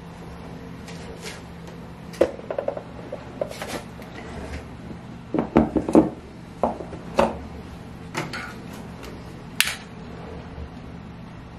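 Hard household objects clinking and knocking as they are handled and set down during cleaning, a dozen or so irregular knocks with the busiest cluster midway, over a steady low hum.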